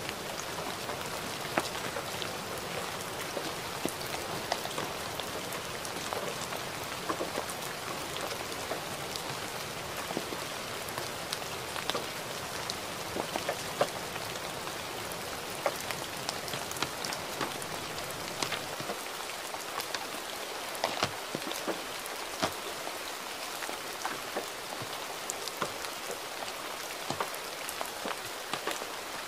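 Gentle rain: a steady hiss with many individual drops tapping sharply.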